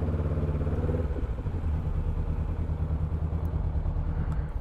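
Motorcycle engine idling steadily with an even pulsing beat, a little fuller for about the first second.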